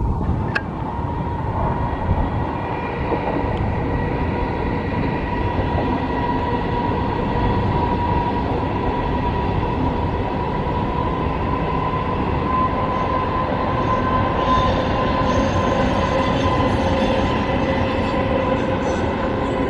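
A train passing close by: a continuous rumble of wheels on the track with a steady ringing tone. Higher-pitched wheel squeals join in about three quarters of the way through.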